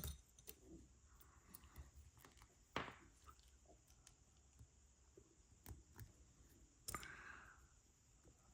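Faint, sparse clicks of plastic building-block pieces being handled and pressed onto a model, a handful over several seconds, with a brief soft rustle near the end.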